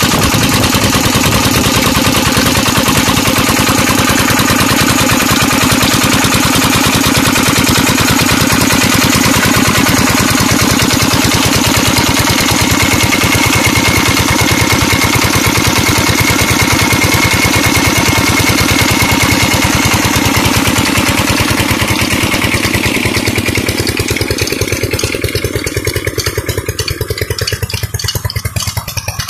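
Peter diesel engine of a tube well running steadily, with a fast even chugging of firing beats. About three-quarters of the way through, the sound turns duller and slightly quieter.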